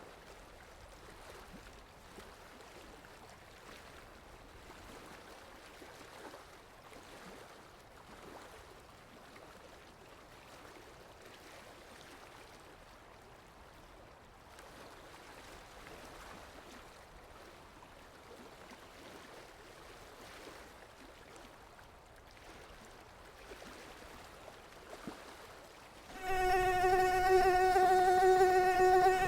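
Faint steady background hiss for most of the time, then near the end a mosquito's wingbeat whine starts suddenly, loud and high, holding one steady pitch.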